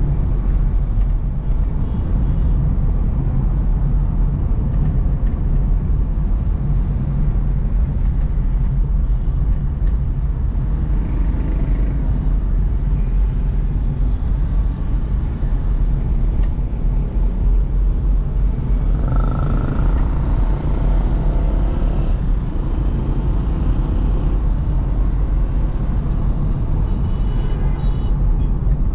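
Car driving on a city road: a steady low rumble of engine and tyre noise, with a brief higher tone about two-thirds of the way through.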